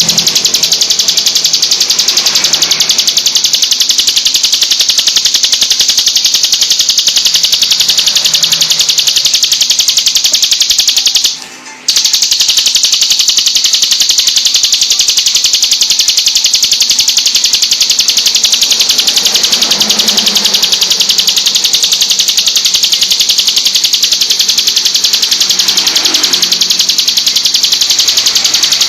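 Ciblek gunung (prinia) song in its rapid-fire 'tembak' form: a loud, high, very fast unbroken trill, with one brief break about eleven seconds in.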